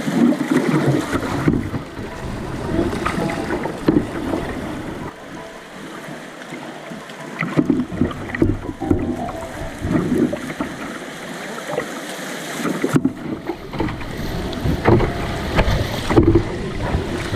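Water rushing and splashing around a canoe on fast river water, with wind buffeting the microphone; the sound changes abruptly a couple of times near the end.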